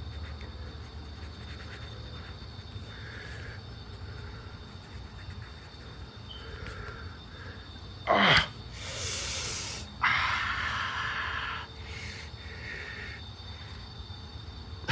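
Quick sketching strokes scratching on paper in short strokes, with a longer scratch a little after ten seconds in. A sharp knock comes about eight seconds in, followed by a brief hiss. A steady low hum runs underneath.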